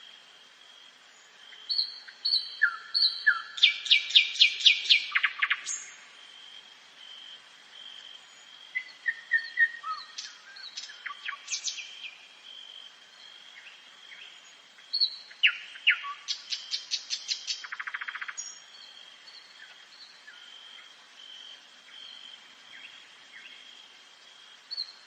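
Nightingale singing at night: three loud phrases of whistles and fast repeated notes, each a few seconds long, separated by pauses, with a new phrase starting at the very end.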